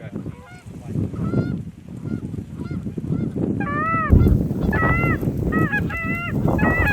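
Canada geese honking: many short repeated honks, faint at first and much louder from about halfway through.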